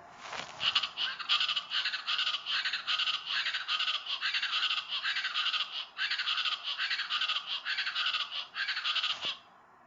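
East Brazilian chachalacas (Ortalis araucuan) calling: a loud, fast run of repeated calls that starts within the first second, dips briefly about six seconds in, and stops abruptly a little after nine seconds.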